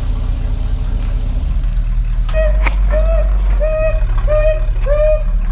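Vehicle running with a steady low drone; from about two seconds in, a short high squeak repeats about twice a second.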